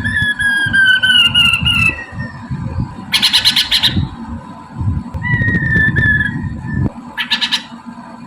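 Poksay mandarin laughingthrush calling: long whistled notes that slide slowly downward, broken by two harsh rasping squawks, over a low background rumble.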